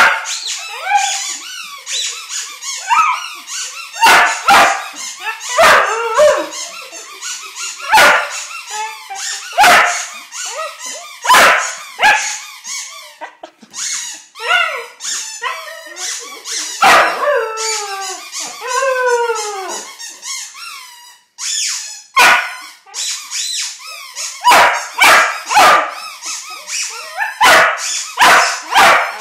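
A puppy howling and barking at a squeaky toy ball that is squeezed again and again. Sharp squeaks keep coming throughout, and around the middle the puppy gives several howls that fall in pitch.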